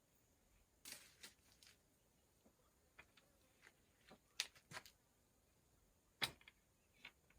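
Faint, scattered short clicks and rustles, as of something being handled, with the loudest at about a second in, twice around the middle, and near the end.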